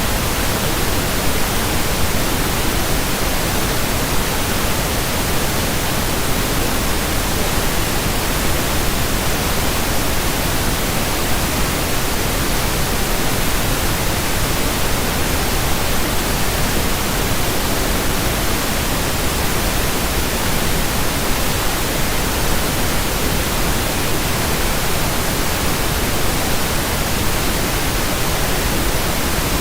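Continuous pink noise: a steady, unchanging hiss spread evenly across all pitches.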